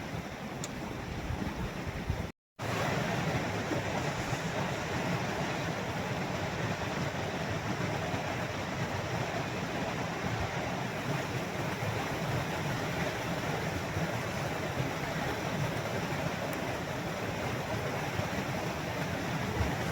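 Mountain river rushing steadily over rocks, an even wash of water noise. It cuts out completely for a split second about two seconds in, then carries on unchanged.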